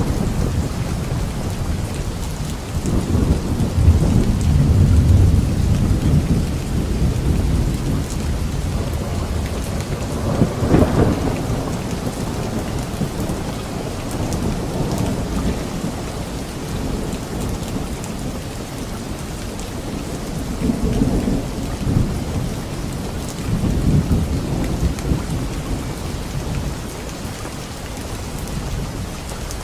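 Steady light rain falling on leaves, with thunder rolling several times: a long low rumble in the first few seconds, a sharper peal near the middle, and two more rumbles in the last third.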